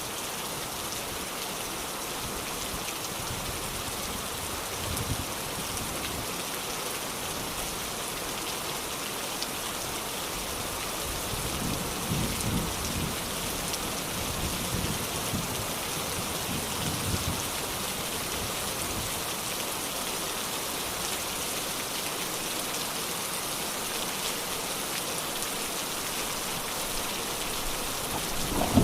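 Steady rain falling and pattering on surfaces, with a few low rumbles of distant thunder near the middle.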